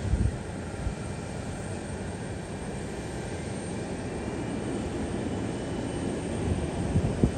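Steady rumble of an airliner's engines, with faint thin whining tones above it. Short low thumps of wind buffeting the microphone come right at the start and again near the end.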